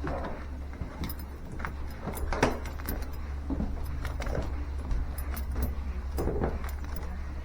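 Footsteps with the light jingle of carried keys or tools and scattered clicks, over a steady low hum.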